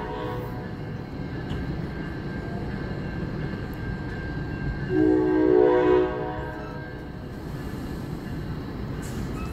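NJ Transit Comet V passenger cars rumbling past on the rails. A multi-tone train horn blast of about a second sounds about five seconds in.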